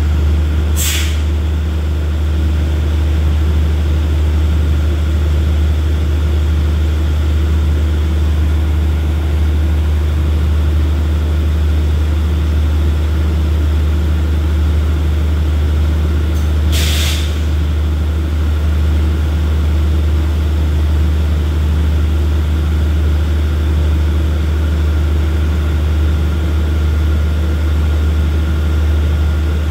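Steady low drone of express train 83 idling at the platform, with two short hisses of released air, one about a second in and another about seventeen seconds in.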